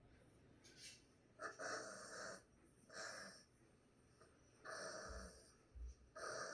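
A dog making four faint, short breathy huffs, each under a second long.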